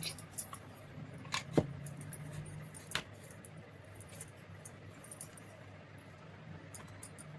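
A few light metallic clinks and knocks from handling small metal parts, the sharpest about one and a half seconds in, over a faint low hum.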